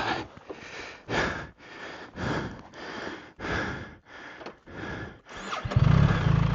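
A man breathing hard and loud, a heavy breath about once a second, out of breath from exertion. Near the end a BMW R 1300 GS Adventure's boxer-twin engine starts up and runs.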